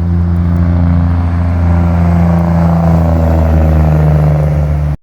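Freightliner Century semi-truck's diesel engine running loudly, its low note shifting in steps and dropping toward the end, before the sound cuts off abruptly.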